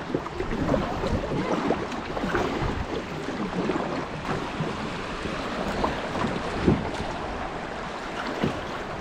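River water rushing and splashing around a kayak, with wind buffeting the action camera's microphone.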